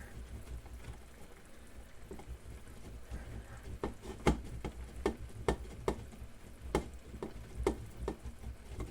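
Omelette bubbling in a frying pan: a steady low hum, then from about halfway in a run of irregular sharp pops, roughly ten of them.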